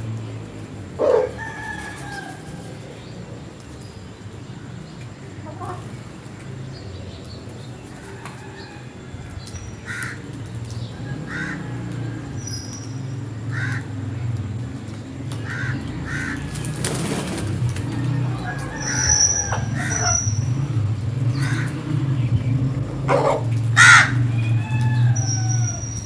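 Crows cawing now and then, short calls spaced out, loudest about a second in and near the end. Small birds chirp high above them over a steady low hum.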